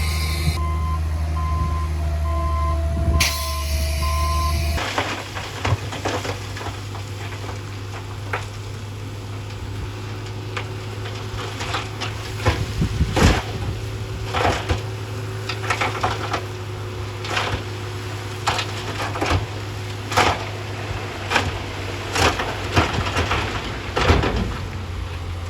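Heavy earthmoving machinery: for the first few seconds a low engine rumble with a reversing alarm beeping, then, after an abrupt change, a machine's diesel engine running steadily with frequent irregular clanks and knocks.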